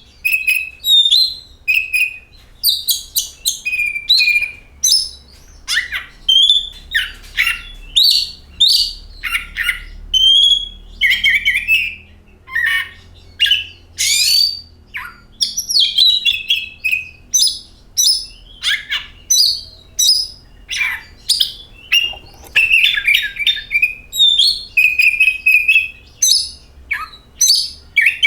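Oriental magpie-robin (kacer) singing: a continuous, varied song of short whistled phrases, rising and falling notes and quick chirps, separated by brief pauses.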